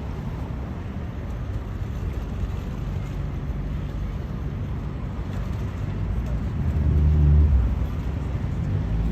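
A low engine rumble with a steady hum, swelling louder about seven seconds in.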